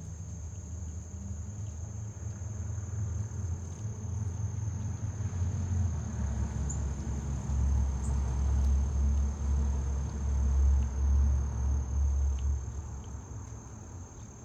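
Crickets trilling in one steady high chorus, with a low rumble that swells about halfway through and fades near the end.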